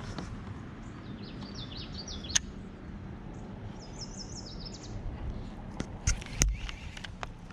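A songbird calling: two runs of short, quick high notes, one about a second in and another near the middle. A few sharp clicks and knocks, the loudest moments, come about two seconds in and twice more near the end, over a steady low rumble.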